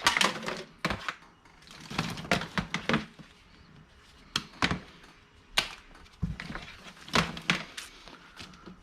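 Rummaging through a bin of old electrical cords, with plugs and cables clattering and knocking irregularly and quieter rustling between the knocks.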